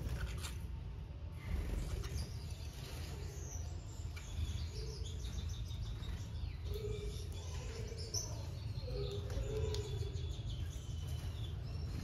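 Small aviary birds chirping and calling: short high chirps scattered throughout, with a few lower notes in the middle, over a steady low rumble.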